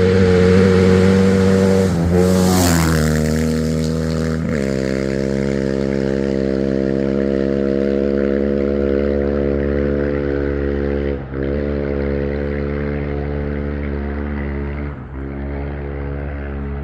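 Rally-raid competition vehicle's engine running at near-constant revs, with a small change in pitch in the first few seconds and two brief drops in level later on.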